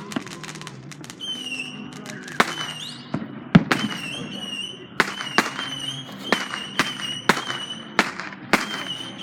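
Fireworks going off in quick succession: about a dozen sharp bangs, roughly two a second, starting a couple of seconds in, the loudest a little past the third second, with a high wavering whistle between them.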